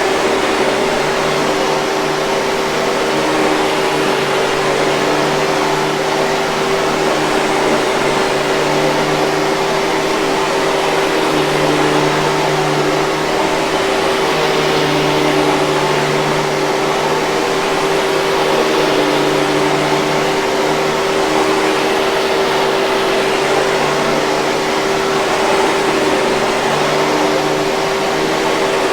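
Hoover 5000 Series canister vacuum cleaner running steadily: an even rushing hiss over a constant motor hum.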